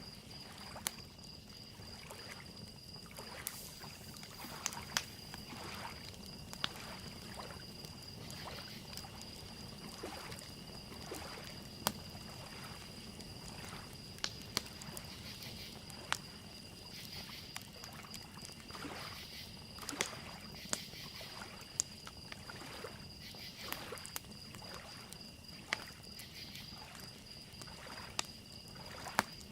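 Wood fire crackling with sharp, irregular pops over a steady high-pitched cricket trill and soft lake waves lapping.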